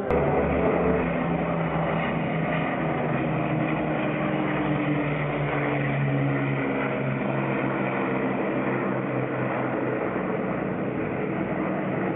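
Rolls-Royce Merlin piston aero engines of a WWII propeller aircraft droning steadily in flight, their pitch shifting slowly as it passes.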